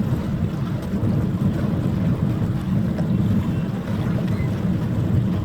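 Wind buffeting the microphone: a steady, rough low rumble with no horn or engine tone standing out.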